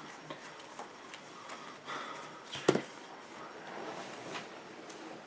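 Trading cards being handled on a table: faint rustling and small clicks, with one sharper tap a little under three seconds in.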